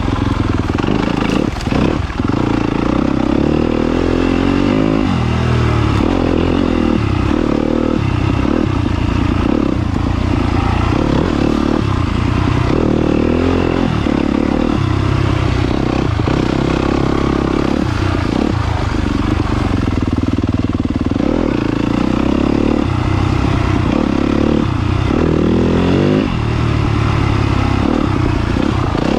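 Yamaha YZ250FX's 250 cc four-stroke single-cylinder engine under way while riding, its pitch rising and falling every second or two as the throttle is opened and closed.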